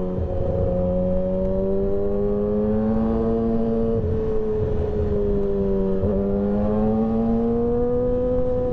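2008 Yamaha R6's inline-four running at motorway speed through its de-catted stainless Black Widow system and SC Project muffler. The engine note holds fairly steady, drifting gently up and down with brief dips about four and six seconds in, over a low rush of wind.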